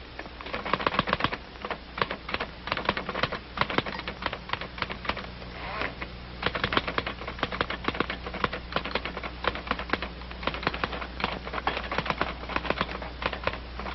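Typewriter being typed on quickly: a fast, uneven clatter of keystrokes with a brief pause about six seconds in.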